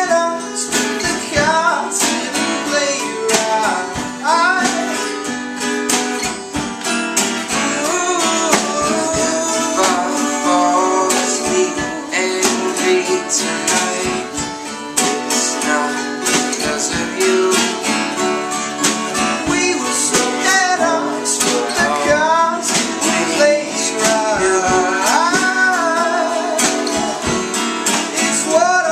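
A live band playing a song: guitars strummed in a dense, steady rhythm under a melody line that slides up and down in pitch.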